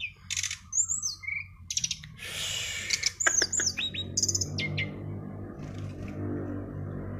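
A songbird singing rapid runs of high chirps and quick slurred whistles during the first half. From about four seconds in, a steady low hum runs underneath and the song thins out.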